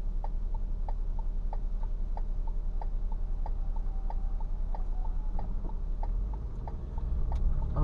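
Car turn-signal indicator clicking at an even pace, about two and a half clicks a second, over a steady low hum of the engine and road inside the cabin. The indicator is on for a left turn.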